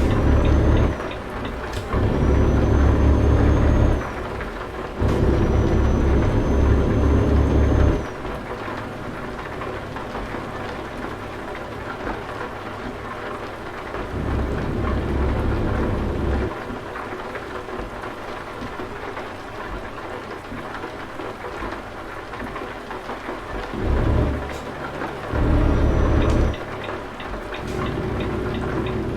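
Heavy truck engine rumbling in bursts of one to four seconds, with quieter stretches between. A faint high whistle rides over the first few bursts, and a steady hiss runs underneath.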